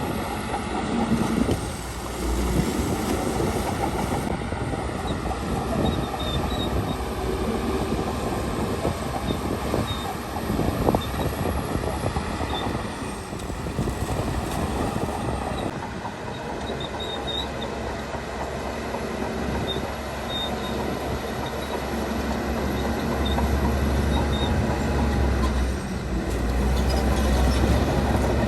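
Crawler bulldozer at work: its diesel engine runs steadily under the clank and squeal of its steel tracks, with a few sharp knocks.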